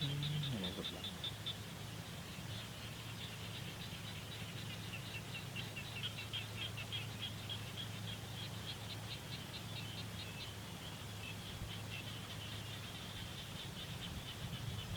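A rapid, continuous train of short high-pitched chirps, about seven a second, rising and falling in strength, over a steady low hum.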